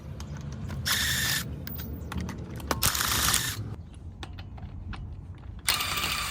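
Hand ratchet with a 22mm socket clicking in three short bursts of rapid clicks, with single ticks between, as the wheel's lug nuts are loosened and spun off.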